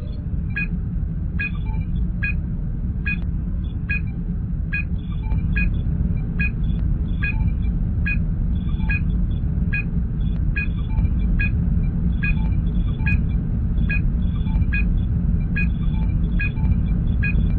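Star Trek starship bridge sound effects: a steady low engine hum under short electronic blips that repeat evenly, a little more than once a second, like a computer scan running.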